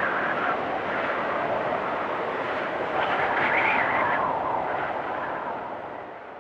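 Storm wind gusting and whistling, with a gust swelling about halfway through and then dying down near the end.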